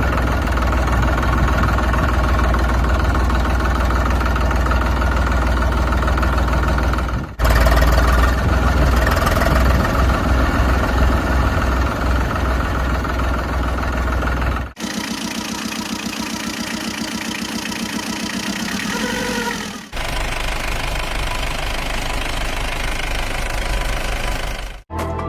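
An engine running, in four stretches that each cut off abruptly, with a strong low rumble.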